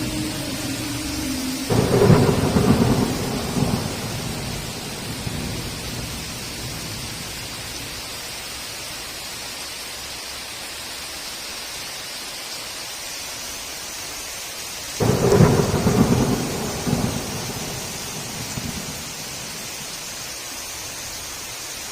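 Heavy rain falling steadily with two claps of thunder, one about two seconds in and another about fifteen seconds in, each rumbling away over a couple of seconds.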